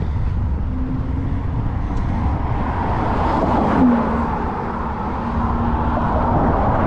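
Wind rumbling on the microphone of a camera on a moving bicycle, with street traffic: a motor vehicle passes close by about four seconds in, its hum dropping in pitch as it goes by.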